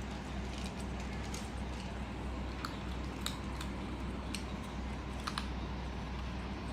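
Kitten chewing dry cat kibble: sharp, irregular crunches a second or so apart, over a steady low hum.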